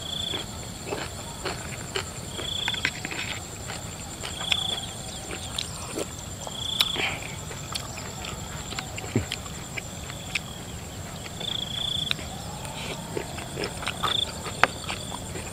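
Close-up chewing and lip-smacking of a person eating spicy shrimp salad with crunchy raw vegetables, with many short crunches and clicks. Under it runs a steady high cricket trill, and a short high chirp comes back every two to three seconds.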